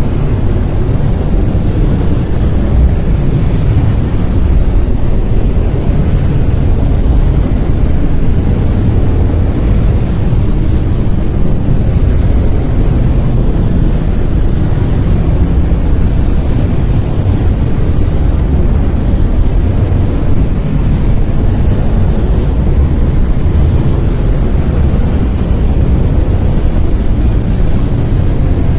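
Brown noise: a steady, loud, deep rumbling hiss, its energy concentrated low and falling off toward the highs, with no changes or events.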